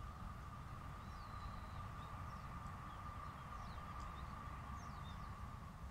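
Faint outdoor ambience: birds giving scattered short, high chirps, several falling quickly in pitch, over a low rumble and a steady faint hum.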